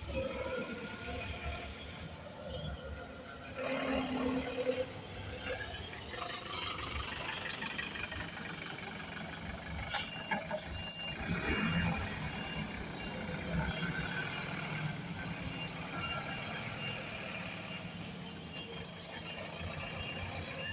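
City buses running and moving about, with engine hum and a thin steady high tone in the second half.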